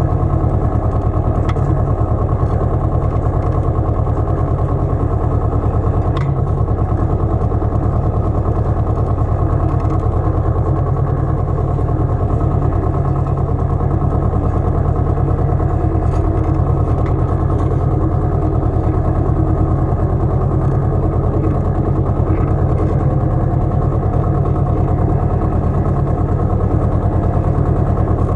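Pasquali 980 EX compact tractor's engine running at a steady speed.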